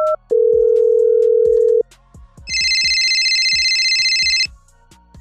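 Telephone sound effects over soft background music: a last short beep, then a steady tone for about a second and a half, then a shrill electronic ring lasting about two seconds.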